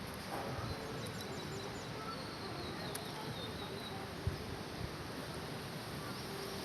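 Faint high bird chirps and a few short twittering notes over a steady outdoor hiss, with one soft low thump about four seconds in.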